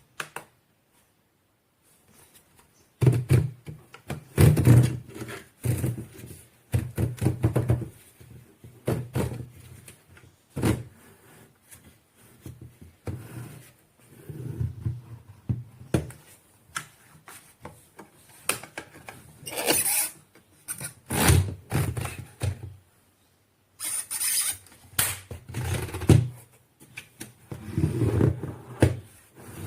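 Irregular thuds, knocks and scraping, as of objects being handled and set down, coming in clusters with short pauses between.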